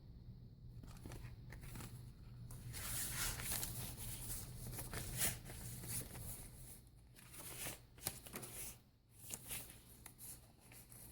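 Paper rustling and crinkling as the pages, tags and cards of a handmade junk journal are handled and turned, in irregular soft bursts.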